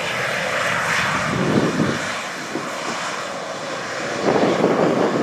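Jet airliner's engines running with a steady roar that swells and fades irregularly.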